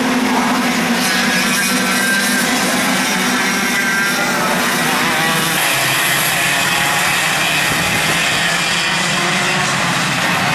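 Two-stroke racing kart engines running hard on track, a continuous buzzing engine note that shifts about halfway through as the karts' engine speeds change.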